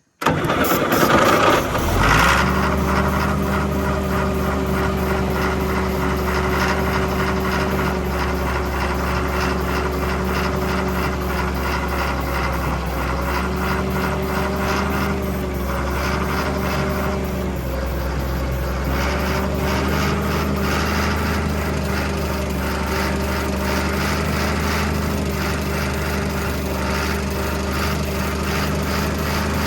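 Large John Deere diesel engine running steadily, coming in abruptly at the start with a louder rattle in the first two seconds before settling. It has just been started on ether and is being run to work the air out of its fuel system.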